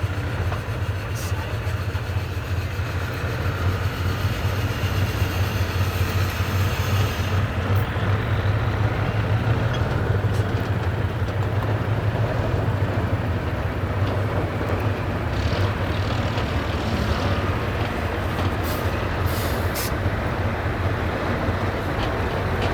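Heavy military truck's diesel engine running steadily, with a high hiss over it that cuts off sharply about seven seconds in.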